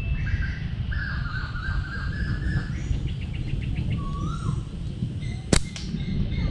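Birds calling and chirping over a steady low rumble, with a quick run of ticking calls about halfway through and one sharp click near the end.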